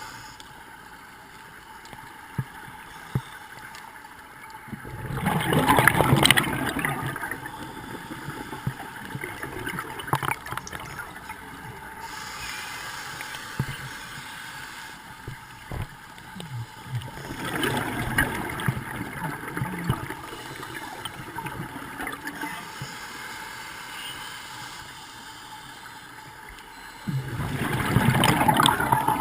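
Scuba diver's exhaled bubbles rushing and gurgling from a regulator, heard underwater. They come in three long bursts about ten seconds apart, with faint clicks and hiss in between.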